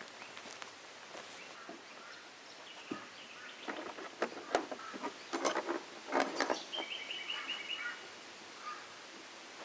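A bird calls a quick run of about eight short, evenly repeated high notes, a little past the middle. Just before it comes a cluster of sharp clicks and knocks, the loudest sounds here.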